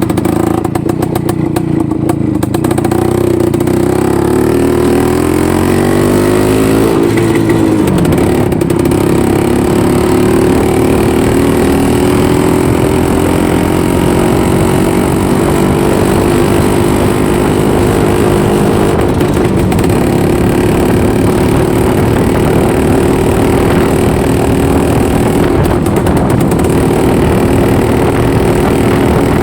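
IZh-49 motorcycle's single-cylinder two-stroke engine running under way. Its pitch rises over the first several seconds as it picks up speed, then holds fairly steady.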